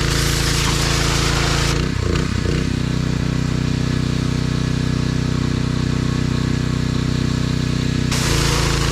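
Compact tractor's three-cylinder diesel engine running steadily under backhoe work. About two seconds in its pitch wavers and settles to a new steady note, and it shifts again near the end.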